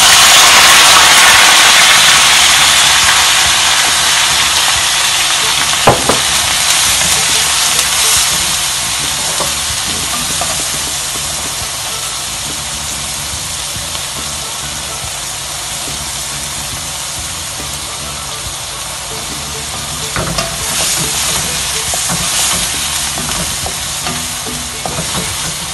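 A corn, carrot and pea vegetable medley drops into hot oil in a wok and sizzles loudly at once, then settles into a steady frying hiss that slowly fades. There is a sharp knock about six seconds in, and the spatula stirs and scrapes the pan again near the end.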